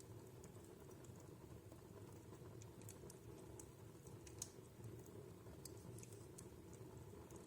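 Wood fire in a fireplace crackling faintly: scattered small pops and ticks at irregular intervals, one sharper pop about four and a half seconds in, over a low steady rumble.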